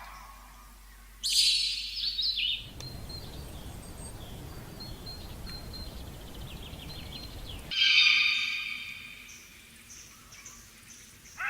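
Animal calls, bird-like: a loud high-pitched call about a second in, then a stretch of outdoor background noise with faint high chirps, then a second loud call that fades away.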